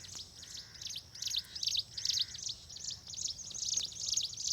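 A dense chorus of many small birds chirping, sparrows among them, with quick high chirps throughout. Three or four lower, buzzy calls about half a second each come in the first half.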